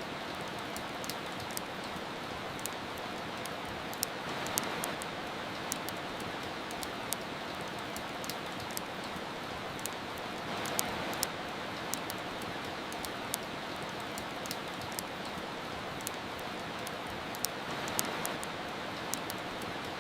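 Steady rain hiss mixed with a wood fire's crackling: irregular sharp pops and snaps several times a second over the rain, which swells a little louder a few times.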